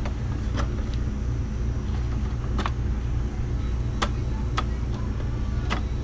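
Steady low mechanical hum, with about half a dozen sharp clicks at uneven intervals of roughly a second.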